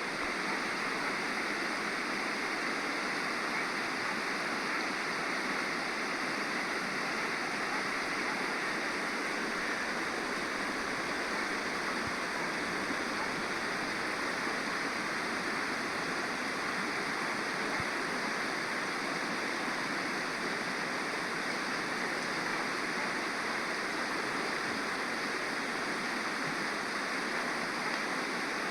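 Stream water flowing and splashing over rocks, a steady full rushing with no change in strength.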